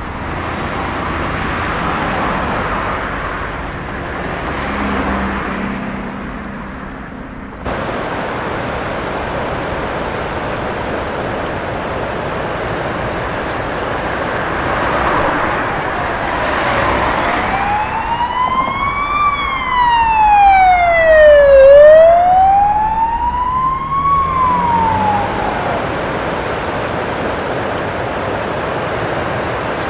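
A siren wailing over a steady rushing noise, its pitch slowly rising and falling twice, loudest a little past two-thirds of the way in.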